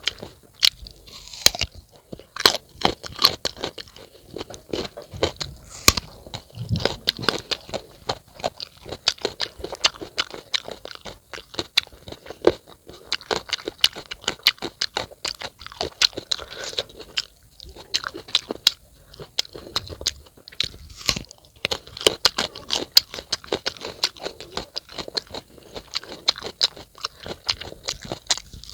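A person chewing crisp, unripe fruit, with dense, wet crunches all through.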